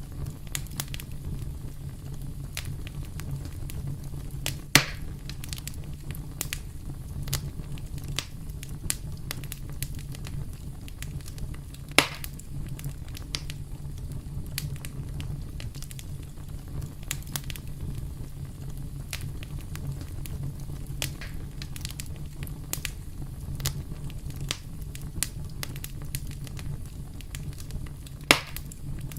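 Wood campfire burning with steady fine crackling over a low rumble, and three loud sharp pops: about five seconds in, near the middle, and near the end.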